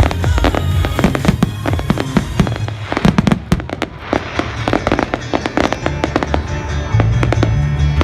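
Fireworks going off in rapid bangs and crackles, with music playing underneath.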